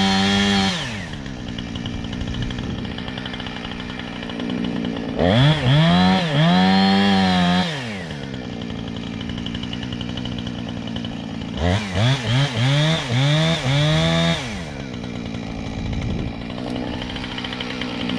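Gas chainsaw revved to high speed three times for two or three seconds each, with quick throttle blips before the second and third, dropping back to idle in between.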